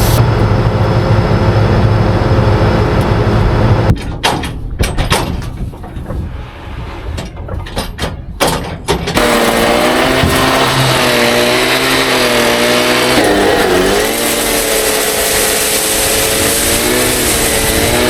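Combine harvester engine running with a loud low hum, then a quieter few seconds of scattered clicks and knocks, then the machine running loud and steady again with a slightly wavering drone.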